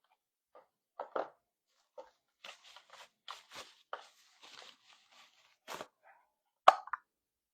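Handling noise: scattered clicks and knocks, a couple of seconds of crinkling, crunching noise, then two sharp clicks near the end, the last one the loudest.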